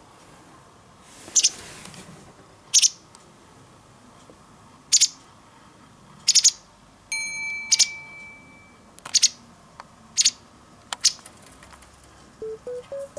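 White wagtail giving short, sharp, high-pitched calls, about eight of them one to two seconds apart. A held pitched tone sounds around the middle, and light background music begins near the end.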